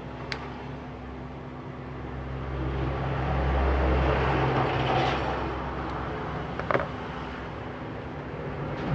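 A passing motor vehicle's engine rumble that grows louder, peaks about four seconds in and fades, with a sharp click near the start and a short tap near the end.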